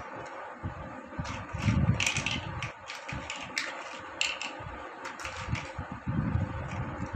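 Plastic building blocks being handled, clicking and clattering against each other in a quick run of sharp clicks, with soft low thuds, over a steady background hum.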